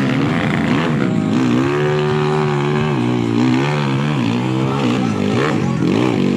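Kawasaki KLX 140 trail bike's single-cylinder four-stroke engine being ridden, revving up and down over and over, its pitch held level for about a second a little after two seconds in.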